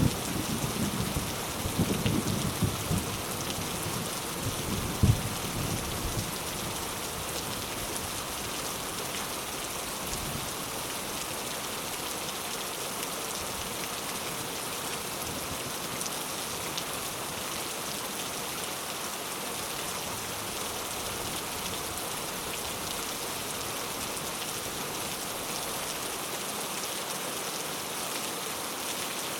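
Rain falling steadily in an even hiss. A low rumble of thunder dies away over the first few seconds, with one last louder roll about five seconds in.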